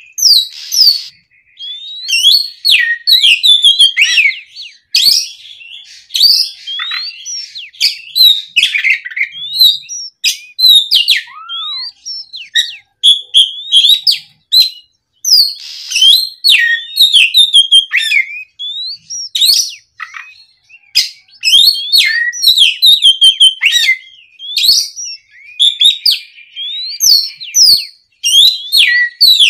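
Oriental magpie-robin (kacer) singing a long, varied song of loud whistles, quick rising and falling slurs and sharp chip notes, with short pauses between phrases.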